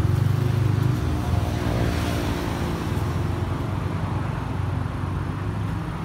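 Road traffic: a motor vehicle engine running close by over a steady street rumble, cutting off suddenly at the end.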